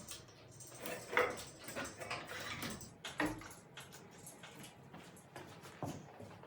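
Scattered knocks, clicks and scrapes of metal at irregular intervals as the engine is hoisted out of the mini excavator on a homemade crane; the sharpest knocks come about a second, three seconds and six seconds in.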